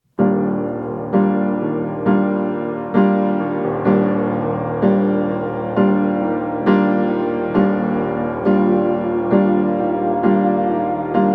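Slow piano background music begins abruptly, with a chord struck about once a second and each chord fading before the next.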